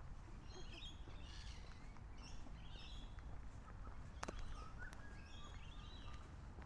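Birds chirping and calling in a run of short, repeated chattering calls, about one a second, over a steady low background rumble. A single sharp click sounds a little past the middle.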